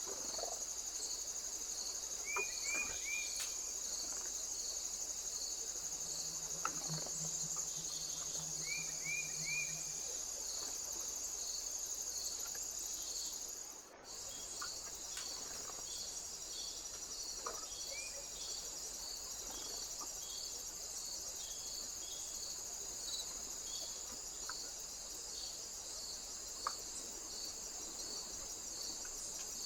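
Insects trilling steadily, with a second insect's chirps repeating about twice a second. A few faint short chirps come in twice early on, and the sound drops out briefly about halfway through.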